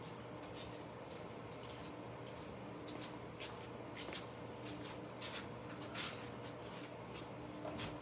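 Scattered light clicks and taps, handling noise around a slot car track, over a steady low electrical hum.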